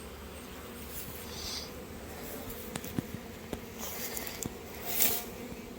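Honey bees buzzing around a hive, a steady hum of many bees flying, with a brief louder swell about five seconds in and a few faint ticks.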